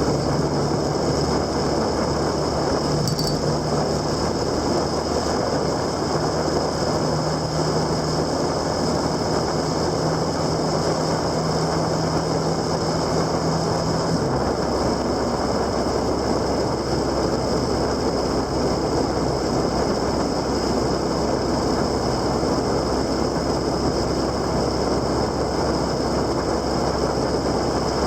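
Motorcycle being ridden, heavy wind and road noise over a steady engine note that drops in pitch about halfway through, as the engine slows or shifts gear.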